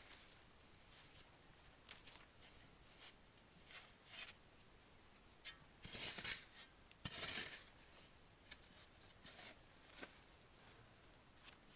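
Faint, scattered rustling and scraping, with two louder swishes about six and seven seconds in.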